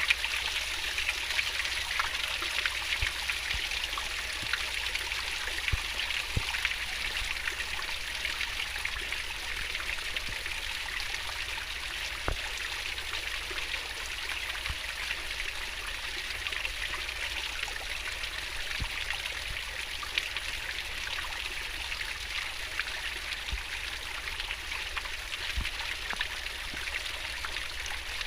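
Swiftly flowing river water: a steady rushing, babbling sound with faint scattered ticks.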